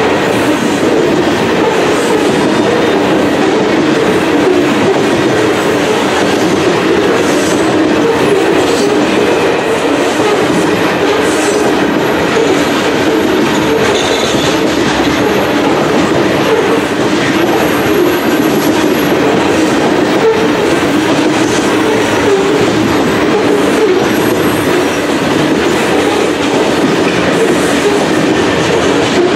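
Covered hopper cars of a long freight grain train rolling past: a steady, loud rumble and clatter of steel wheels on rail. A faint high-pitched squeal comes through a few times midway.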